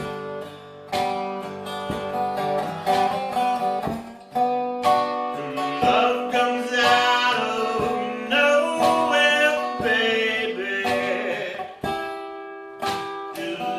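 Acoustic guitar playing a slow blues with added reverb, chords struck about once a second and held notes ringing between them, with bending, wavering notes through the middle.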